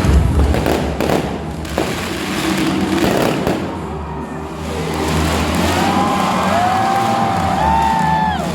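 Fireworks going off, with several sharp bangs in the first two seconds over a steady low rumble of street traffic. Near the end a wavering horn-like tone sounds.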